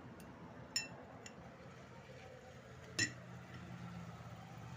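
Small metal parts of a table fan motor clinking lightly as they are handled during a bush replacement: two sharp ringing clinks, one just under a second in and one about three seconds in, with a few fainter ticks over a faint low hum.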